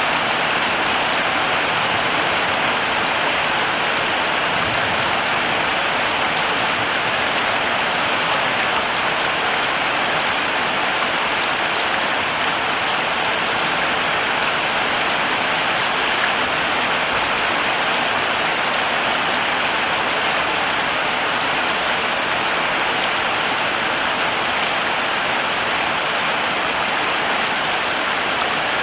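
Heavy rain falling steadily, a dense even hiss of drops with faint scattered ticks of individual drops.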